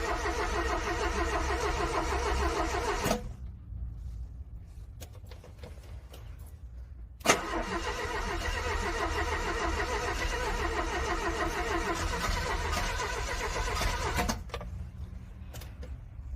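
Car starter cranking a cold, frozen engine that does not catch. The first crank stops about three seconds in. After a pause, a click and a second crank of about seven seconds also ends without the engine running.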